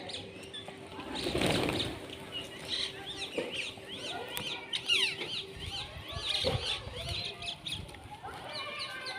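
Many small birds chirping and trilling over one another in quick, repeated calls. About a second in there is a brief whooshing rush, and a dull thump comes near the middle.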